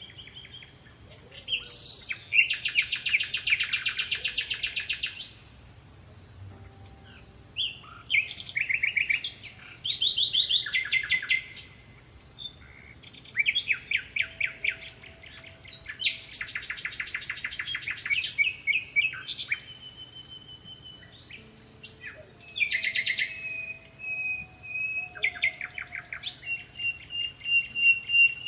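Songbird singing: long phrases of rapid trills and whistles, each lasting a few seconds, with short pauses between, and a held whistle near the end.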